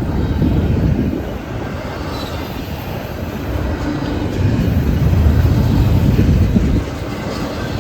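Freight train's cars rolling past, a steady rumble of wheels on rail that grows louder a little past halfway and drops back shortly before the end.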